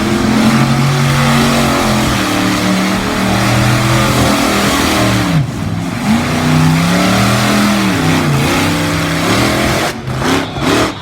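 Monster truck engine revving hard: held at high revs for several seconds, dropping off about five seconds in, then climbing and held again before falling away, with a few quick blips of the throttle near the end.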